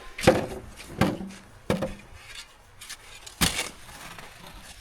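Four crunching hits on hard, packed snow: one just after the start, one about a second in, one near two seconds, and one about three and a half seconds in.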